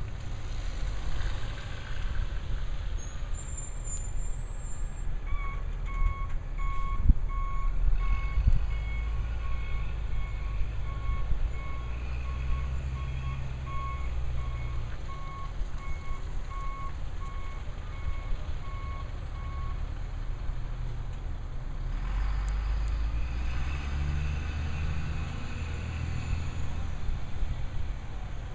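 Labrie Cool Hand garbage truck running, its reverse alarm beeping steadily about once a second for some fifteen seconds while it backs up. The engine grows louder near the end.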